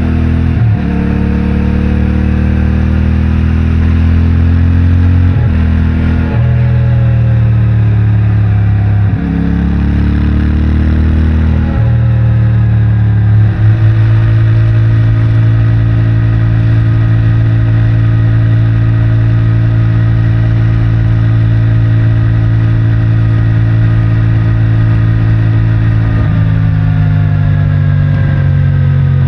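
CFMOTO 450MT's parallel-twin engine through its stock exhaust, pulling through the gears with the pitch jumping at each shift, then holding a steady cruise from about halfway before the pitch changes again near the end.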